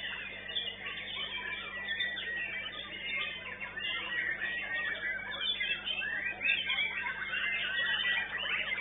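White-rumped shama (murai batu) singing a rapid, varied run of whistles, chirps and gliding notes, overlapped by other songbirds without a break.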